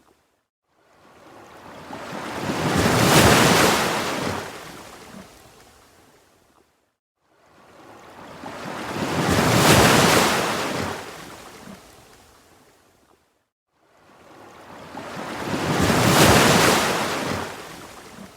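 Ocean waves washing in, three in turn: each surge builds to a peak and fades, about six and a half seconds apart, with a brief hush between them.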